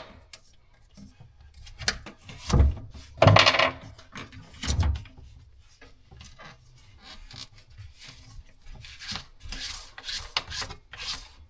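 Hand work on sink drain fittings: a few knocks and clunks of parts being handled, then quieter scraping and rubbing as a fitting is worked into place.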